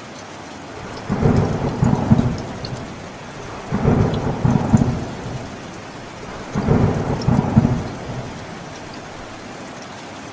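Thunder rumbling three times, each roll about two seconds long and a few seconds apart, over steady rain.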